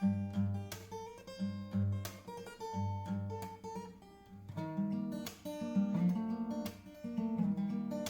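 Acoustic guitar music, strummed chords with a picked melody and a bass line, with a strum about once a second.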